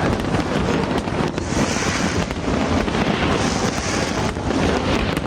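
Fireworks display: a dense run of bangs and crackles over a steady rumble, with two spells of high fizzing hiss in the middle.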